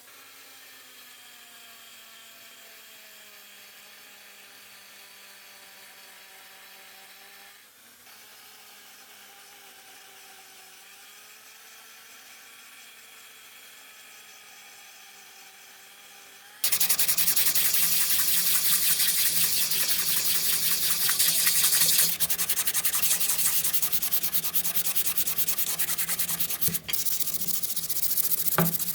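A faint wavering hum, then, a little past halfway, an abrupt start of loud, rapid abrasive rubbing on the brass of the tea box, as in sanding or polishing away corrosion.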